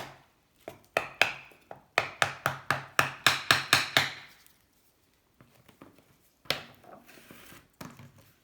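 A hammer tapping wooden wedges into the seam between a Honda C70 engine's aluminium crankcase halves to prise them apart, in a fast run of sharp blows about four to five a second. After a pause comes a single knock and some scraping as the case is handled.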